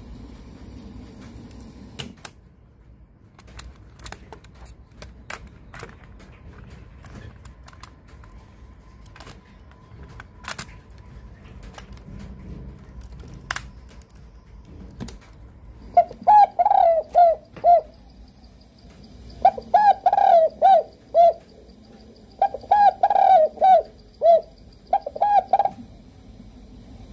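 Scattered sharp clicks and knocks, then a bird calling loudly in four runs of short, quick notes that bend in pitch, beginning about halfway through.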